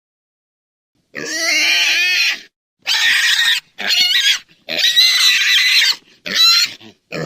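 Domestic pig squealing: about six loud, high-pitched squeals in quick succession, starting about a second in.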